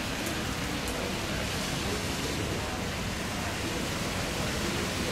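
Steady rushing noise of rain, with a distant widebody twinjet airliner slowing on a wet runway after touchdown.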